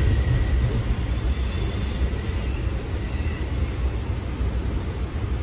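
Freight train of covered hopper cars rolling past on the adjacent track, a steady low rumble of wheels on rail, heard through the windows from inside a stationary light rail car.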